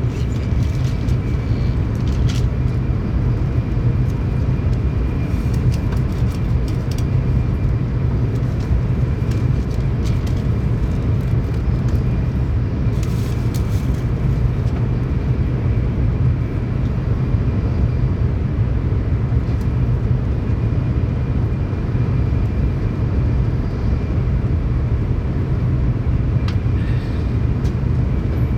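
Tokaido Shinkansen train running at speed, heard inside the passenger car: a steady low rumble of running noise with a few faint clicks and rattles.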